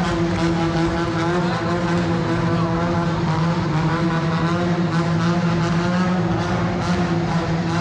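Monster truck engine running loud at steady, high revs, holding one pitch throughout.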